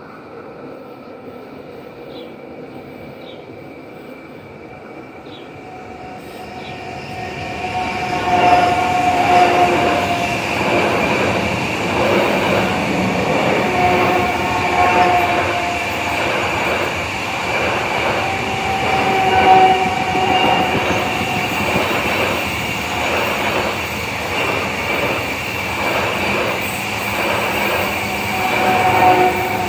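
Rhaetian Railway ABe 4/16 electric train approaching and running past a level crossing. It is heard from about six seconds in and is loud from about eight seconds, with a rhythmic clacking of wheels over the rail joints and a high whine that comes and goes. Before it arrives, the crossing's warning signal sounds with faint, evenly repeating strokes.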